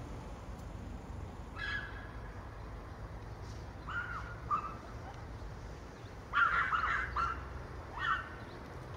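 Short bird calls: a few single notes, then a quick run of several about six and a half seconds in, the loudest of them, over a steady low rumble.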